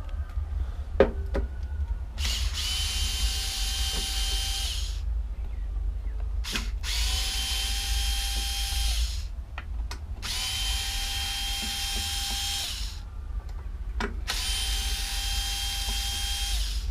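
A power drill run four times in bursts of about two and a half seconds, each a steady whine, with a few sharp clicks of tools being handled between runs; it is undoing fasteners to take the carburettor off a lawnmower engine. A low hum runs underneath.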